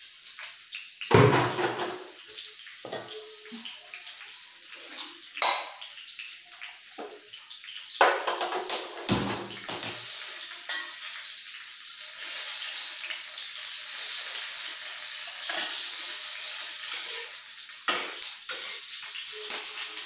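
Metal cookware clanking: a steel kadhai set down on the gas stove and utensils knocked, the loudest knocks about a second in and about eight seconds in. Under it, green chillies frying in hot oil on a tawa give a steady sizzle that grows fuller after about ten seconds, with sharper spits near the end.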